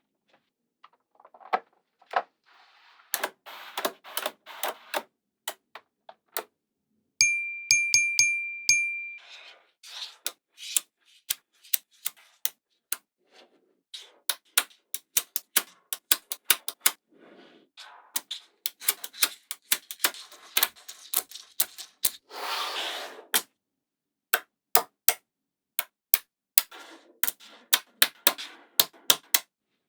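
Small magnetic balls clicking and snapping together as they are placed, many sharp clicks at an irregular pace. About a quarter of the way in, a steady high ringing tone sounds for about two seconds, and about two-thirds through there is a short rattling rush.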